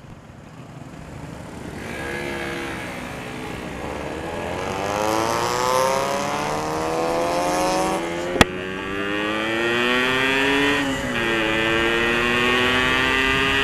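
Yamaha RX two-stroke single-cylinder motorcycle with an aftermarket Altech C20 exhaust accelerating hard from a standstill. The engine note climbs steadily in pitch, a sharp click comes about eight seconds in, the revs drop and climb again with a short dip near eleven seconds as it shifts up, and it then holds at a high, steady pitch.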